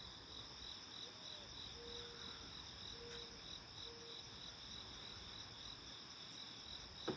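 Faint insect chorus in late summer: an evenly pulsing chirp about three times a second over a continuous high trill, with three short low notes about halfway through.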